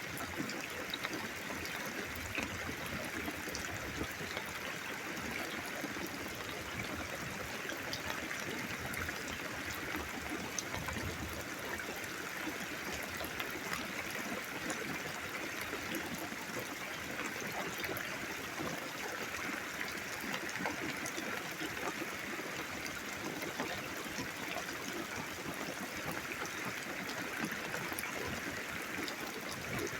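Steady rain falling during a thunderstorm, a continuous hiss dotted with many small drop ticks.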